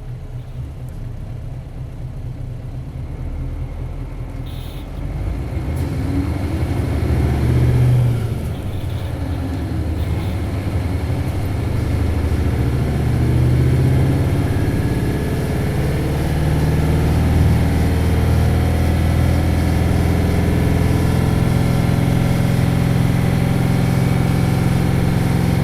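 Isuzu 8PE1-S V8 diesel engine of an Isuzu Cubic city bus, heard from inside the bus as it pulls away. It runs low at first, then revs hard. It drops briefly at a gear change about eight seconds in, then climbs again and holds high revs steadily through the second half.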